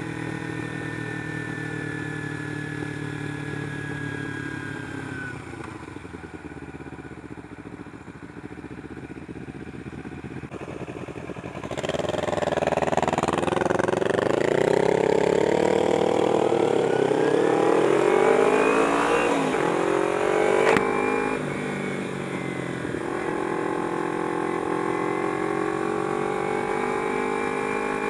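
Kawasaki Ninja 250R parallel-twin motorcycle engine under way. It runs steadily at low revs; then, about twelve seconds in, it gets louder and the revs climb in a rising whine for several seconds. The pitch drops suddenly at a gear change and the engine settles into a steady cruise.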